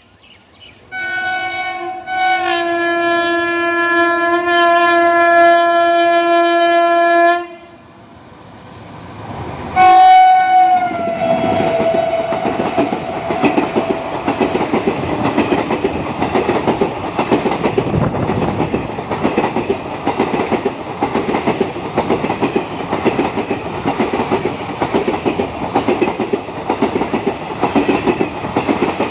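WAP7 electric locomotive's horn sounding one long blast of about six seconds, then a short blast that drops in pitch as the locomotive passes at speed. ICF passenger coaches then rush past with a rapid, even clickety-clack of wheels over the rail joints.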